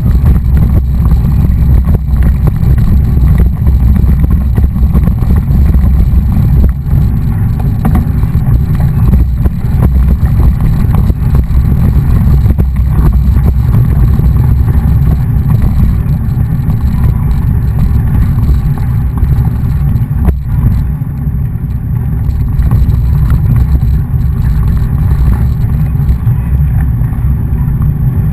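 Loud, steady low rumble of wind buffeting the camera microphone on a moving mountain bike. It eases briefly about twenty seconds in.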